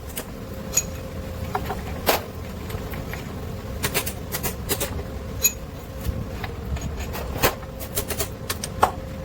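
Irregular sharp metallic clicks and knocks of hand tools and loose parts being handled while a Kirloskar 6R 1080 TA diesel engine is taken apart, over a steady low workshop hum.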